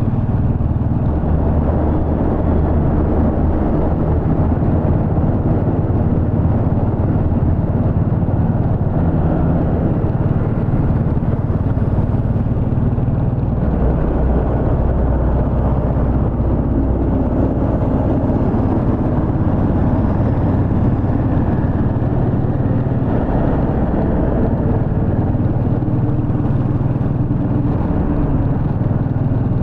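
Royal Enfield Bullet 350's single-cylinder engine running on the move, heard from the rider's position, with road and wind noise. It is steady and loud throughout, its pitch shifting a little as the speed changes.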